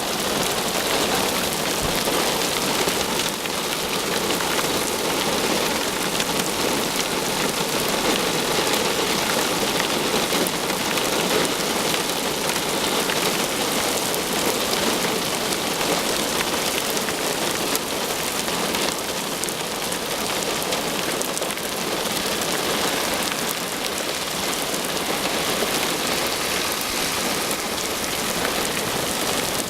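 Heavy thunderstorm rain falling hard, a steady, unbroken hiss.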